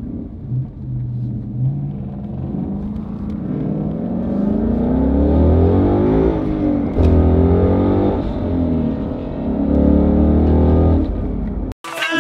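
Car engine accelerating hard, its pitch climbing and dropping back several times as it shifts up through the gears.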